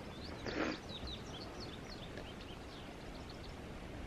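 Faint birdsong: a scatter of short, high chirps over a quiet forest background, with a brief soft swell of noise about half a second in.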